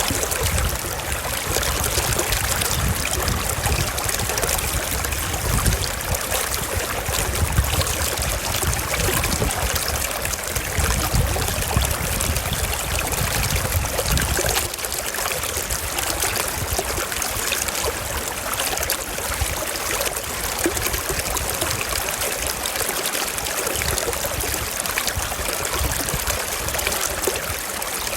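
Forest stream flowing, a steady rush and trickle of water. A low rumble underneath drops away about halfway through.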